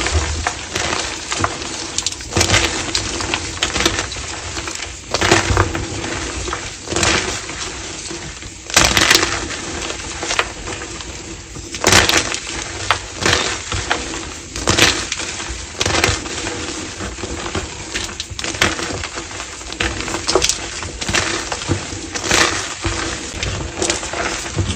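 Blocks of gym chalk being crushed and crumbled, a continuous run of crunching and crackling with sharper, louder cracks every second or two.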